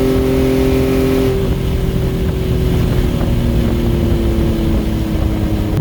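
Nissan 370Z's 3.7-litre V6 running under load on a dyno at a held speed, with its exhaust note slowly sagging in pitch. Right at the end it drops suddenly to a lower steady note.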